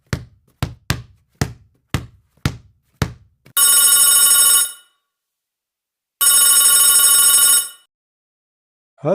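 A run of sharp knocks, about two a second, then two long bursts of an electronic telephone ring, each lasting over a second with a pause between.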